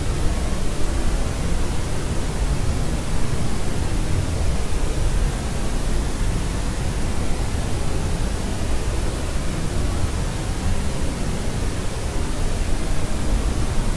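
A steady white-noise sleep track: an even, unbroken rushing hiss, fuller in the low end than in the treble.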